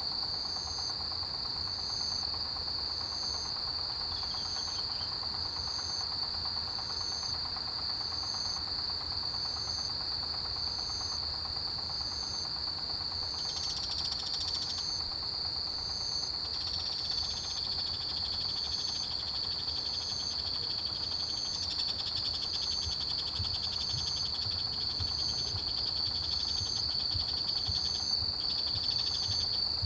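A chorus of autumn grass insects (crickets): one steady high trill runs without a break, with a softer higher chirp repeating at an even pace over it. Other insects' buzzing trills join in and drop out through the second half.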